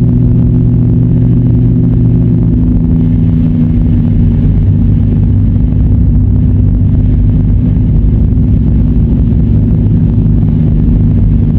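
A car's engine and road noise, heard from inside while it is driven on snowy roads: a steady low hum whose engine tones change about two and a half seconds in.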